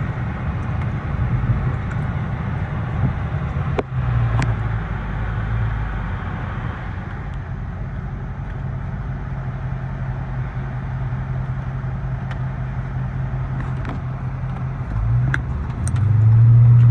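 Dodge SRT 392's 6.4-litre HEMI V8, still on its stock exhaust, running at a steady low drone with road noise while driving. The engine note swells louder about two seconds before the end.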